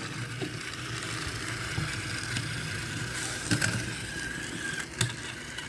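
Motorized toy train engines running along plastic track with a steady whirring motor hum and a thin high whine. Two sharp clicks come a little past the middle and near the end.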